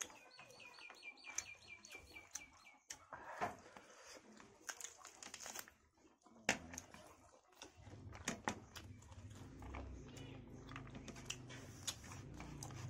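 Close-up eating sounds of chicken and rice eaten by hand: short wet clicks and lip smacks of chewing. At the start a bird in the background gives a rapid run of about a dozen high chirps lasting nearly three seconds, and a low rumble comes in during the second half.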